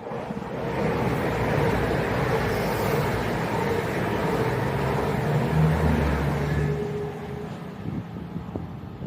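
Diesel passenger multiple-unit train passing through the station at speed: a loud rush of wheels and engines that builds up quickly at the start, holds for several seconds, then fades away near the end.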